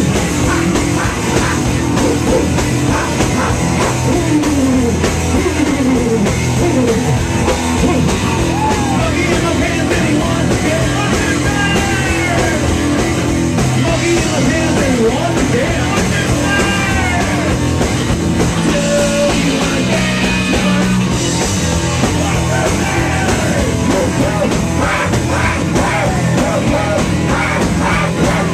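Rock song with a drum kit, guitar and a singing voice.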